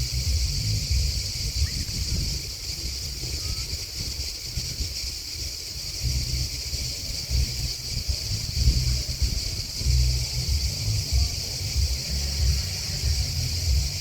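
Steady, continuous high-pitched chorus of crickets and grasshoppers chirping, over an uneven low rumble that swells and fades.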